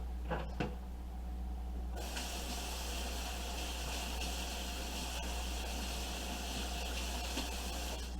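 Kitchen tap running into a sink, a steady hiss that starts about two seconds in and stops near the end, as olive oil is washed off the hands. A couple of light knocks come just before it.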